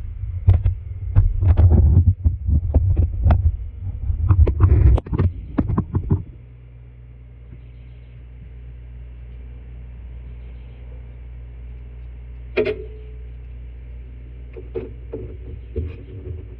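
Close handling noise of hands working on the tractor's loader control housing: knocks, clicks and rubbing for about six seconds. Then a steady low hum with a few single clicks.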